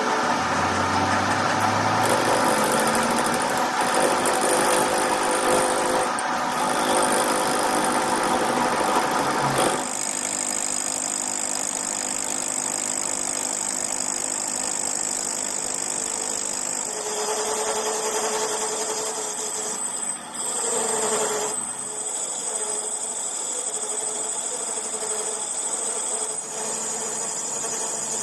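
A workshop machine running steadily, its sound shifting about ten seconds in to a duller hum with a high whine over it.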